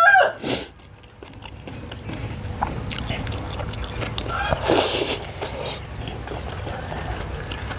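A person chewing and biting food, with soft mouth clicks and one louder bite about five seconds in.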